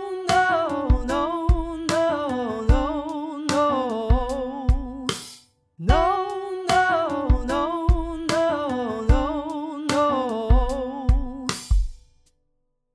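A voice sings an R&B riffs-and-runs exercise over a drum beat: a quick, wavering run that steps downward in pitch. The same phrase comes twice, about five seconds each with a short gap between, and the sound stops about twelve seconds in.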